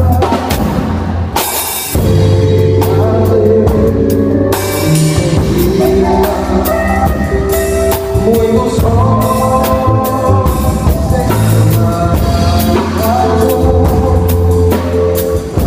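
A live worship band playing during a sound check: drum kit and bass under held chords, with a voice singing.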